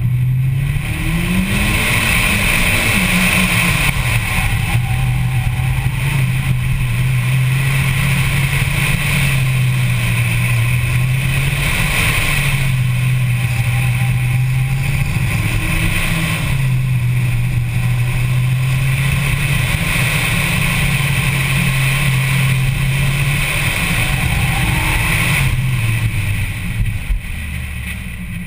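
Mitsubishi Lancer Evolution X's turbocharged 2.0-litre four-cylinder driven hard through an autocross course, the engine note repeatedly rising under acceleration and falling as the driver lifts between cones. Heard from inside the cabin. Near the end the revs and loudness drop as the car slows.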